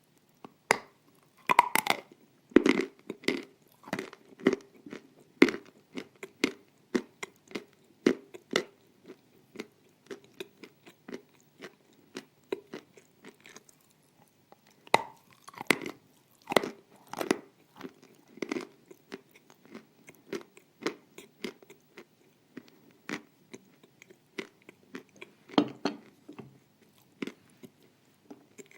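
Close-miked crunching bites into dry pieces of pressed edible clay, followed by steady chewing at about one to two chews a second. A second cluster of loud crunches comes about halfway through, as a fresh piece is bitten.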